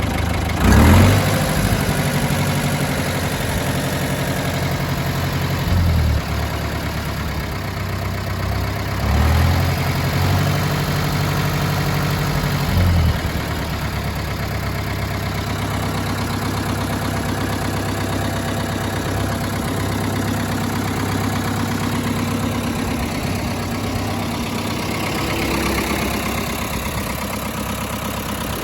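1973 Ford 7000 tractor's four-cylinder diesel engine running at idle, with its speed shifting briefly about a second in, around six seconds, and again from about nine to thirteen seconds.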